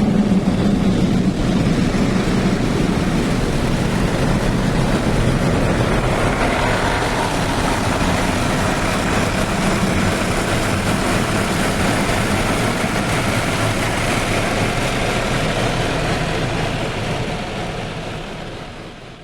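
Steady, loud machine noise of the vehicle or mechanical kind, fading out over the last couple of seconds.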